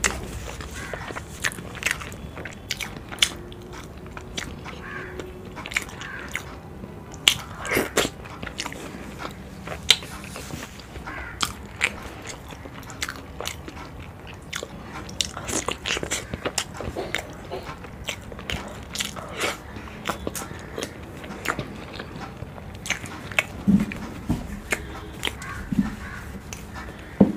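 Close-miked eating of whole fried boiled eggs dipped in spicy curry gravy: bites and chewing, with wet mouth smacks and clicks at irregular intervals.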